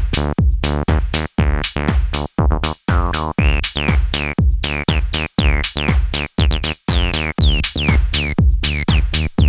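Behringer TD-3, a TB-303-style analog bass synthesizer, playing a squelchy acid bassline of short resonant notes over a driving drum-machine loop. From about halfway through, the filter opens up and a bright resonant peak sweeps down on each note.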